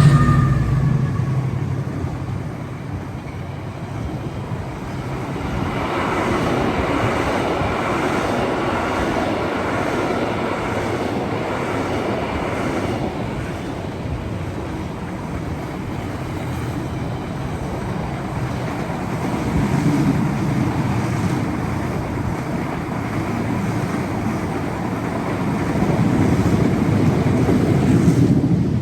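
A train running past on the line: a steady rumble of wheels on rails that swells and fades several times.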